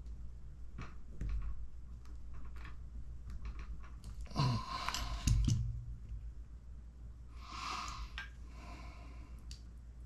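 Light clicks of tiny kit parts and tools being handled at a workbench, with a couple of breathy sighs or exhales in the middle.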